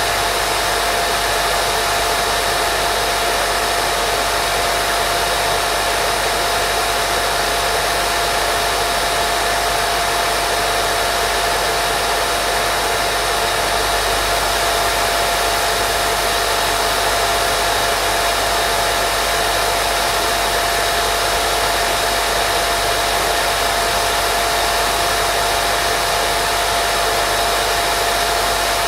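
Steady, unbroken white noise for baby sleep: a constant hiss with a steady hum tone running through it.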